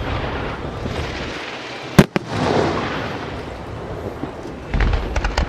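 Aerial fireworks shells bursting overhead with continuous crackling. One sharp, loud bang comes about two seconds in, and a cluster of bursts comes near the end.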